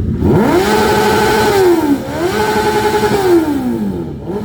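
Motorcycle engine revved twice in a row: each time the pitch climbs quickly, holds for about a second, then drops back toward idle, with another short blip starting near the end.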